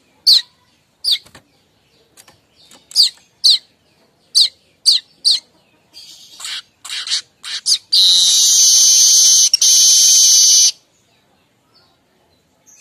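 Streaked weaver (manyar kembang) calling: a run of short, sharp, high chirps, then harsher notes. About eight seconds in, it breaks into a continuous buzzing chatter lasting nearly three seconds, broken once.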